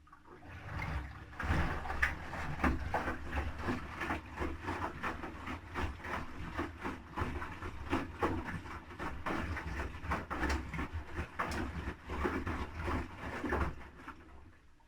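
Haier HW80-B14979 front-loading washing machine drum turning during its wash, wet laundry tumbling and sloshing with water in a busy run of soft knocks and splashes. It starts and builds over the first second and stops after about fourteen seconds: one turn of the drum between pauses.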